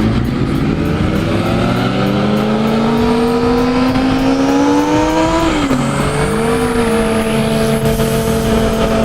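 Yamaha FZ-09's inline three-cylinder engine under way, revs climbing steadily for about five seconds, then an upshift drops the pitch and it settles into a steady cruise. Wind rushes over the helmet microphone throughout.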